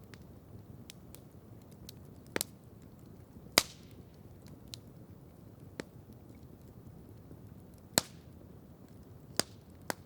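Campfire crackling: a steady low rustle of burning wood broken by about half a dozen sharp pops and snaps, the loudest a little over three and a half seconds and eight seconds in, with faint ticks in between.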